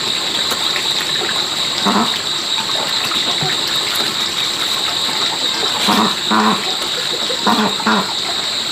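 A steady high-pitched drone, with a few short low calls about two seconds in and again around six and eight seconds.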